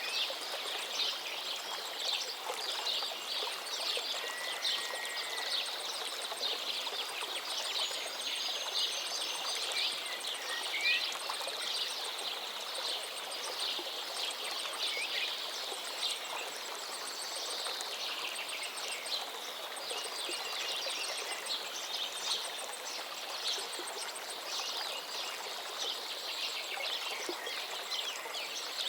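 A forest river flowing steadily, with songbirds chirping and trilling over it throughout. A few short whistled notes stand out, about four, eight and eleven seconds in.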